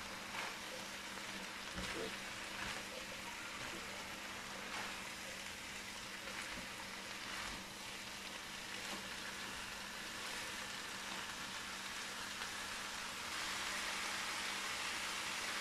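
Chicken and vegetable filling sizzling in a nonstick frying pan while a silicone spatula stirs it, with soft scrapes of the stirring. About thirteen seconds in the sizzle grows louder as soya sauce is poured into the hot pan.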